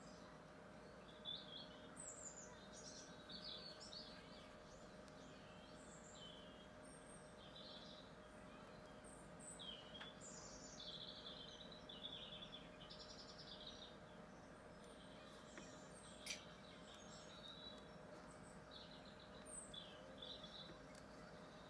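Faint birdsong: several small birds chirping and twittering in short high calls throughout, over a faint steady hum. One sharp click about sixteen seconds in.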